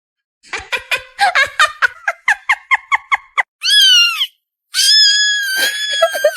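High-pitched squeaky calls: a fast run of about fifteen short chirps, then a squeal that rises and falls, and a long high wail near the end.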